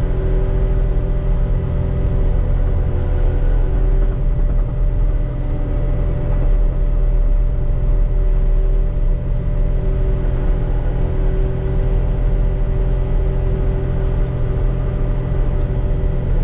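Caterpillar 289D3 skid steer's diesel engine running steadily under load as it drives a mower attachment, with a deep, even rumble and steady hum from the hydraulics and mower.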